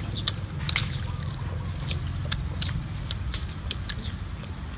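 Close, mouthy eating sounds of people chewing cake: an irregular string of short wet clicks and smacks, over a low steady rumble.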